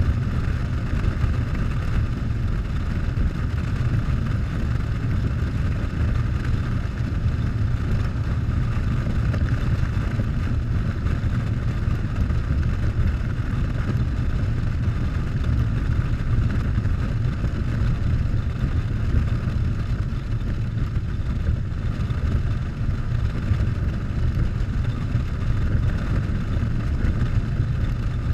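Harley-Davidson Softail V-twin motorcycle running steadily at road speed, its engine drone mixed with a constant rush of wind on the microphone.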